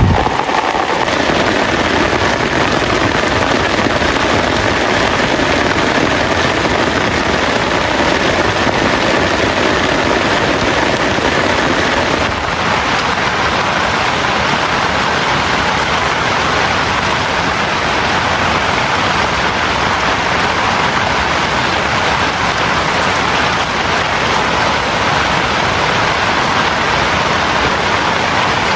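Heavy rain falling steadily in a dense, even hiss, a little softer from about twelve seconds in.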